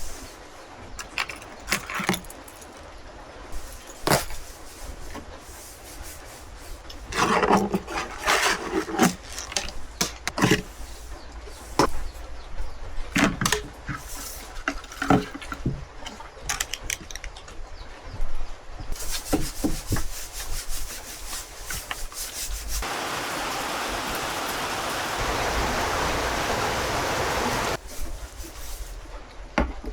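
Objects being handled: scattered clicks and knocks with a stretch of rubbing and clatter, then a steady rushing noise that starts suddenly and runs for about five seconds before cutting off.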